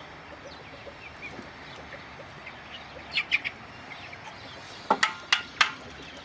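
Birds chirping, with a quick cluster of louder calls about three seconds in. About five seconds in come three sharp knocks in quick succession.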